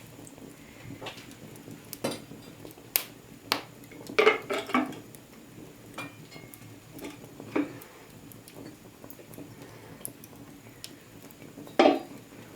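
Kitchen utensils clinking and knocking against pots and dishes: scattered sharp clinks, a quick run of them about four seconds in, and a louder knock near the end.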